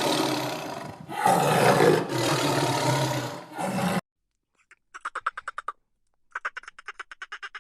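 An animal's loud, rough calls in long bouts for the first few seconds. Then, from about five seconds in, a duck quacks in quick chattering runs of short pulses.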